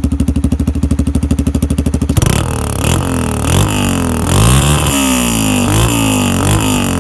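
Yamaha TT-R125's single-cylinder four-stroke engine through its stock exhaust with the baffle spaced out on washers, giving a deeper exhaust note. It runs at a steady pulsing idle, then about two seconds in switches abruptly to repeated revving, the pitch rising and falling again and again.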